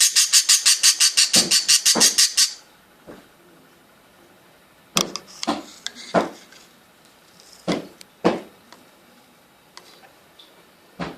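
Budgie chirping in a rapid, even run of about eight calls a second, which stops about two and a half seconds in; then a few scattered short taps and clicks.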